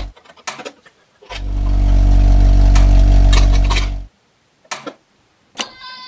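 Toy vehicle's engine sound running steadily for about three seconds, then cutting off suddenly, with light plastic clicks and taps before and after.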